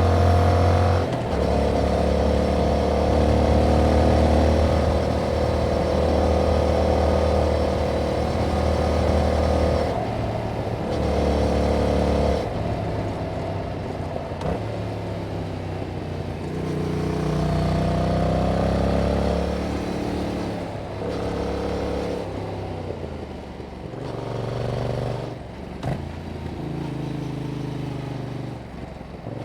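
A Yamaha MT-07's parallel-twin engine running through its stock exhaust. It pulls steadily for about ten seconds, then the throttle repeatedly closes and reopens, with the pitch dropping and climbing again through the gears, and there is one sharp click near the end.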